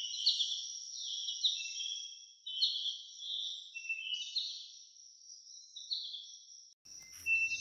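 Small birds chirping in quick, short notes over a steady high-pitched tone. The sound breaks off briefly near the end.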